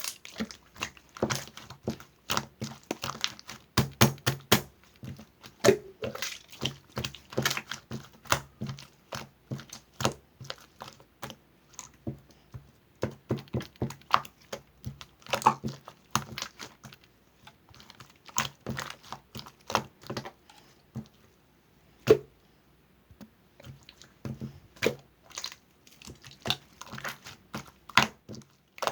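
Close, irregular clicks, taps and light knocks, dense and uneven, with a few brief pauses.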